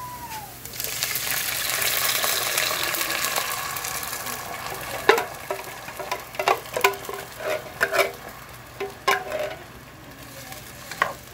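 Canned pinto beans and their liquid hitting hot oil with sautéed onions and garlic, setting off a sizzle about a second in that fades over the next few seconds. From about halfway through, a string of sharp clicks and knocks against the pot as the beans are worked out of the can and stirred.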